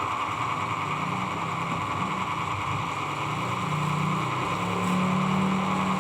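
A small motor running steadily, with a low hum that grows stronger near the end.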